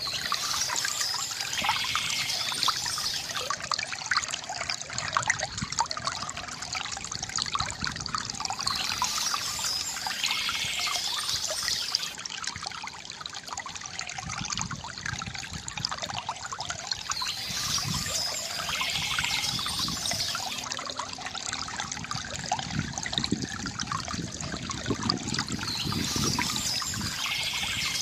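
Stream water trickling and splashing steadily. A short high bird song phrase recurs about every eight to nine seconds over it.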